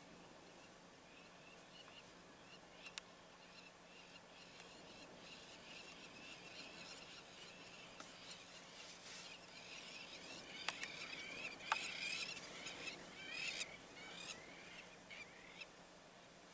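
Small birds chirping and chattering, the calls sparse at first and growing busy after about halfway, with a few sharp clicks among them.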